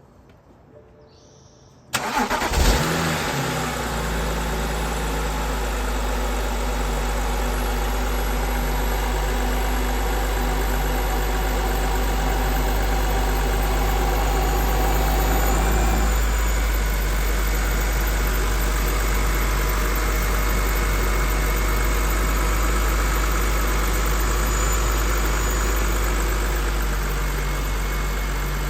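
BMW 328i 3.0-litre straight-six cold-starting: the starter cranks briefly, the engine catches about two seconds in, and it settles into a steady fast cold idle. About halfway through the idle note eases down as it warms.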